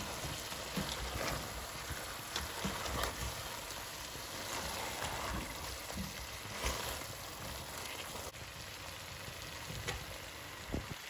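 Vegetables sizzling as they fry in their own tomato juices in a stone-coated nonstick pot, turned over with a spatula that makes soft scrapes and light knocks against the pot.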